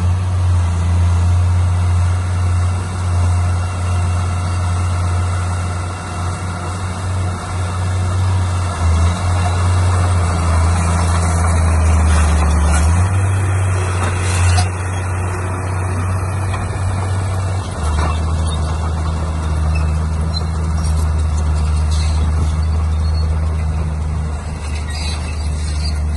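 Heavy diesel construction machinery running. The engine drone is low and steady, shifting pitch a couple of times, with a louder, higher noise about halfway through.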